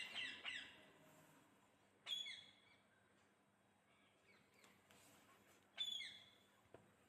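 Parrots calling: a few short chirping calls, spaced a couple of seconds apart.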